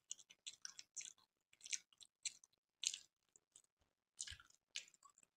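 Close-miked chewing of a soft, syrup-soaked gulab jamun: quiet, irregular mouth sounds, a few each second.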